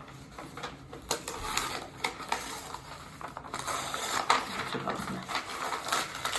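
Irregular light clicks and taps, getting busier about halfway through.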